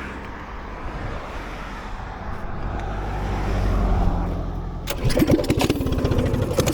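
A vehicle passes on the road with a low drone that swells and eases. About five seconds in, a small gas minibike engine starts up suddenly and runs with a fast, rough pulsing.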